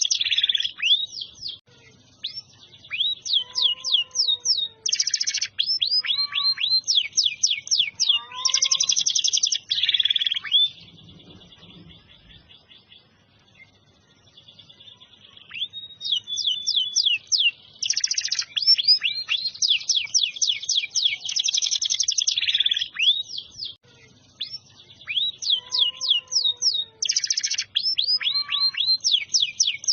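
Domestic canary singing in full song: fast trills of rapidly repeated, high, downward-sweeping notes and rolls. It drops to a soft trill for a few seconds near the middle, then resumes at full strength.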